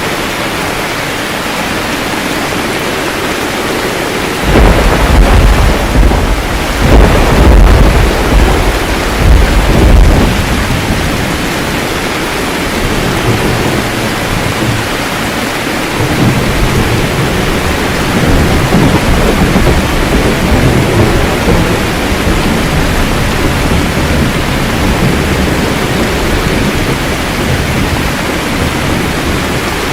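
Steady rain with thunder. About four and a half seconds in, thunder breaks in suddenly and rolls in several loud peaks for about six seconds. A quieter rumble of thunder returns about sixteen seconds in and rolls on under the rain.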